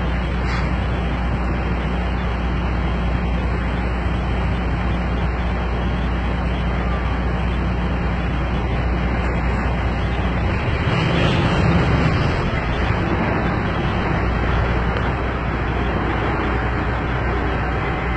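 Semi truck's diesel engine idling, a steady low rumble that swells briefly about eleven seconds in.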